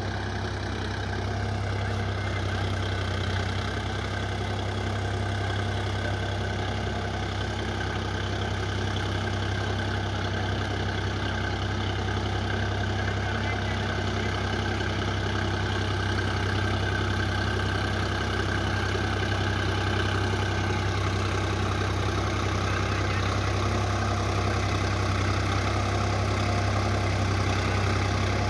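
Preet 955 tractor's diesel engine running steadily with a 7-foot rotavator attached, growing slightly louder toward the end.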